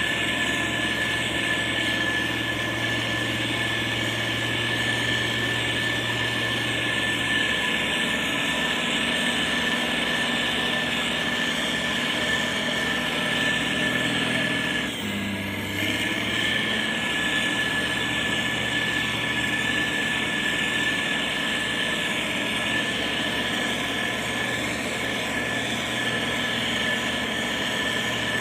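Heavy road-construction machinery diesel engines running steadily under load, with a constant high whine over the engine drone and a brief drop in level about halfway through.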